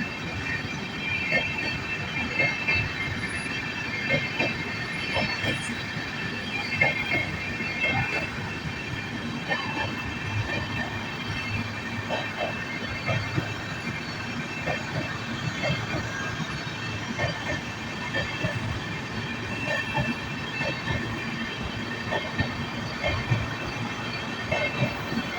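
Sachkhand Superfast Express passenger train rolling in along the platform, its wheels knocking over the rail joints with a steady high-pitched wheel squeal over a continuous rumble.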